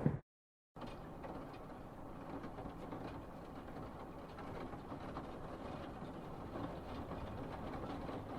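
The tail of a thunderclap cuts off suddenly, then after half a second of silence a steady, faint light rain sets in, with a low rumble and scattered soft drop ticks.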